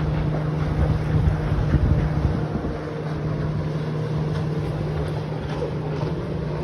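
Motorboat engine running with a steady low drone, with wind buffeting the microphone.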